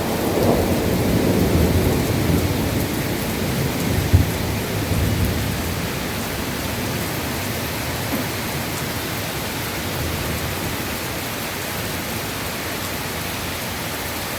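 Heavy rain pouring down in a thunderstorm. Thunder rumbles low and dies away over the first several seconds, with one short sharp crack about four seconds in, leaving the steady downpour.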